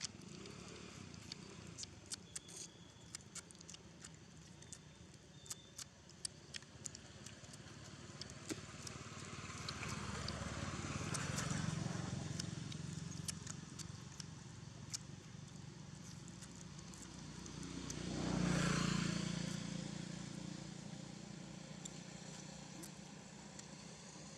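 Two motor vehicles passing by, the sound swelling and fading twice: once about eleven seconds in and again, louder, about eighteen seconds in. Scattered small sharp clicks in the first several seconds.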